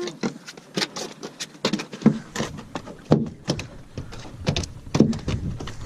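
Irregular knocks and thumps on the boat, two or three a second.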